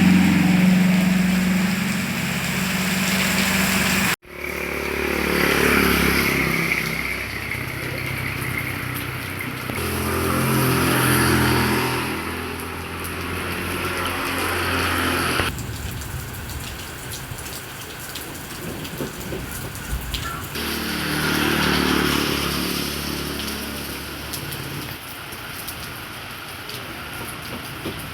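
Heavy rain falling steadily, with the engines of several passing vehicles swelling and fading over it, one after another. The sound drops out for an instant about four seconds in.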